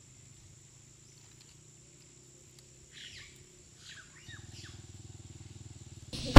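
Quiet outdoor ambience with a few faint bird chirps about three and four seconds in, then a low rhythmic pulsing. A sudden loud clack comes at the very end.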